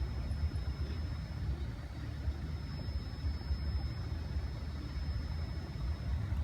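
Steady low rumble of road vehicle engines idling, with a thin steady high whine running through it.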